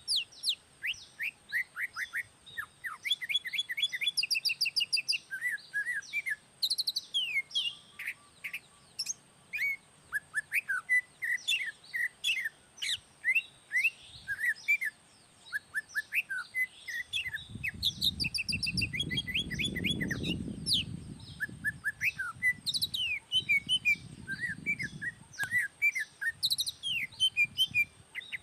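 A songbird singing a long, fast run of varied chirps and short whistled notes, with hardly a pause. A low rumble comes in about two-thirds of the way through and sits under the song for several seconds.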